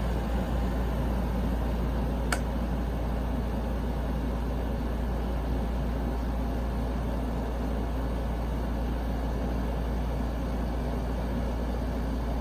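2013 Kenmore 10,000 BTU window air conditioner running steadily on low fan speed, a constant rush of air over a low hum, with a single click about two seconds in.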